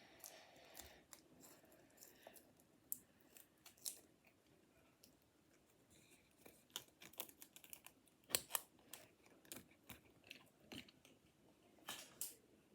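Scissors cutting paper in faint, scattered snips and crunches, with a few sharper snips in the second half.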